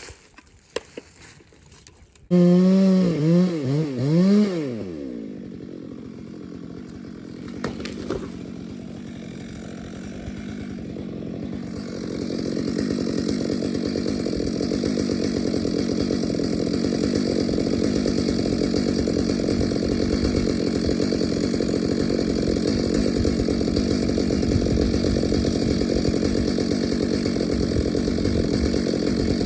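Chainsaw starting about two seconds in, revved a few times with its pitch rising and falling, then settling to a lower steady run. A little before halfway it goes up to a louder steady high-revving run that holds to the end, as a saw does when it is cutting.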